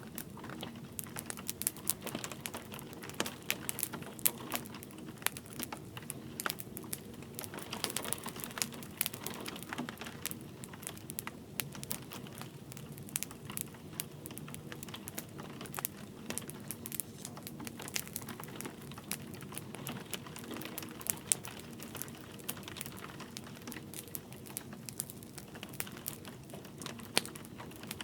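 Wood fire crackling, with frequent irregular sharp pops and snaps, over a steady soft hiss of light rain.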